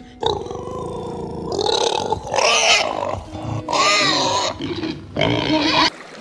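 An animal calling: about four loud calls with rising and falling pitch, each lasting under a second.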